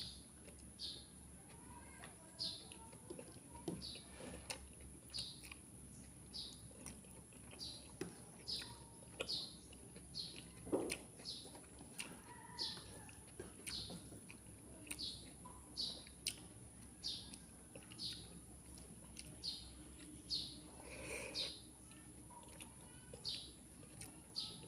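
A small bird chirping over and over, one short high chirp about every two-thirds of a second, over a steady high thin whine, with a few knocks now and then.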